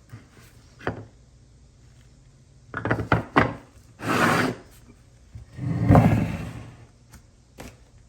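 Handling noises of wood and metal parts: a click, a quick run of knocks, a short scraping slide, then a longer, louder rub ending in a thud, and one more click near the end.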